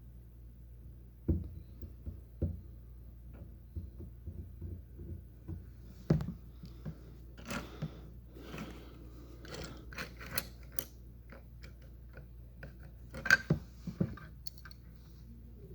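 Plastic Lego pieces being handled and fitted together: irregular small clicks and light clatter with short rustling patches, and sharper knocks at about one second, six seconds and thirteen seconds in.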